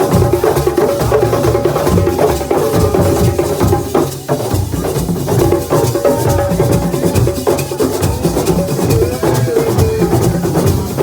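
Assiko percussion ensemble playing a fast, dense rhythm on drums, including the square frame drum (caisse carrée), with sharp wood-block-like knocks over steady mid-pitched tones.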